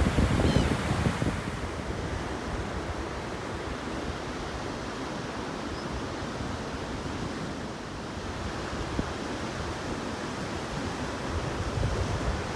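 Ocean surf washing on the shore, with wind rumbling on the microphone; the wind and surf are loudest in the first second or so, then settle to a steady wash.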